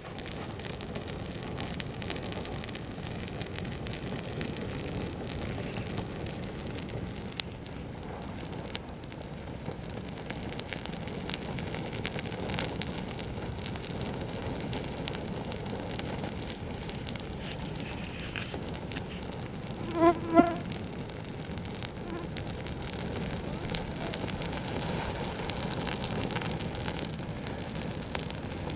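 Campfire burning, with a steady hiss and scattered crackles and pops from the wood. About two-thirds of the way through comes a brief pitched buzz in two quick pulses, louder than the fire.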